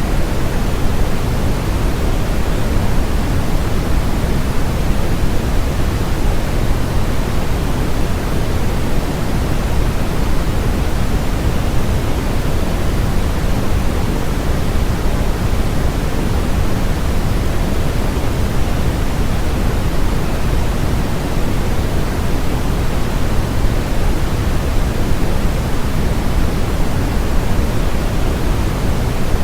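Steady, unbroken synthetic white noise, an even hiss spread across the whole range and heavier in the low end than the top, with no change in level.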